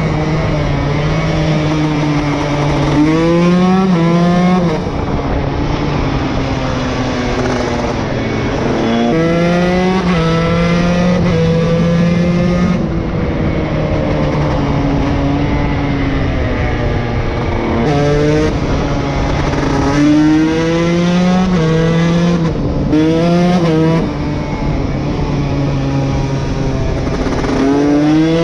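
KTM SX 150 two-stroke single-cylinder engine under riding load. It holds a steady pitch for stretches, then revs up in quick rising sweeps, shifting through the gears several times and dropping back off the throttle.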